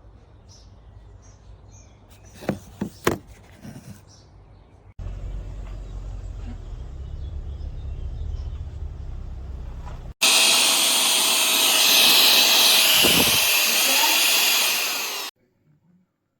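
Handheld vacuum and air-duster motor running with a loud, steady rush of air and a faint whine, starting suddenly about ten seconds in and cutting off abruptly some five seconds later. Before it come a few knocks and a low rumble.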